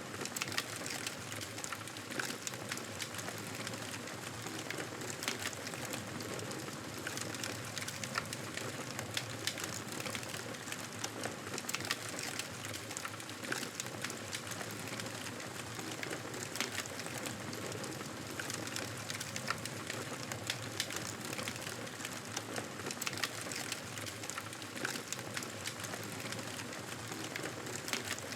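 Wood fire in a fireplace crackling: a steady hiss dotted with frequent small sharp pops and snaps.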